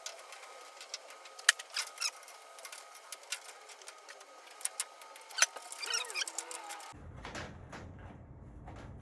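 Scattered sharp clicks, taps and light knocks of hand work fitting parts into a cabinet, with a short squeak about six seconds in. About seven seconds in, the background changes abruptly to a low rumble.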